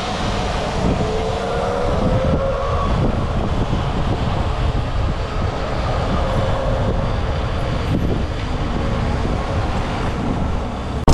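Riding an electric dirt bike: steady wind and road rumble on the microphone, with a faint motor whine that rises a little a second or two in. A sudden loud bump right at the end.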